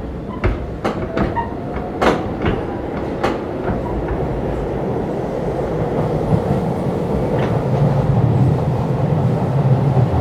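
Keisei 3500-series electric train running, heard from inside a motor car: the wheels click sharply over rail joints several times in the first few seconds, then a low rumble and motor hum grow steadily louder.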